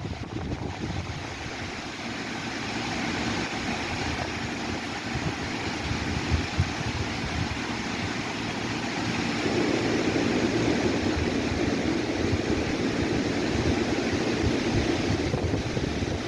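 Wind blowing through trees and rustling the leaves, a steady hiss that swells gradually, with wind rumbling on the microphone.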